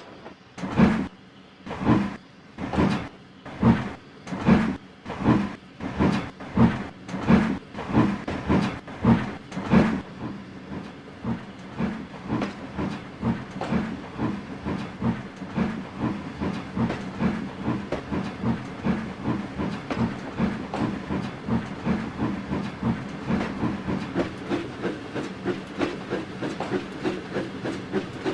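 Flying Scotsman, an LNER A3 three-cylinder steam locomotive, chuffing as it pulls away. The exhaust beats are loud and about two a second at first. About a third of the way in they quicken into a fast, quieter, even rhythm as the train picks up speed.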